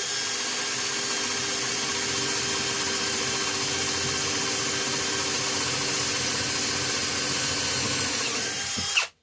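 Electric power tool working on aluminium bus-bar stock: the motor spins up with a rising whine, runs steadily under load for about nine seconds, then shuts off near the end.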